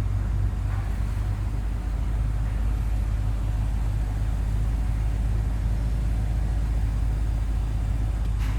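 Steady low rumble of a car heard from inside its cabin, even in level throughout, with a faint click near the end.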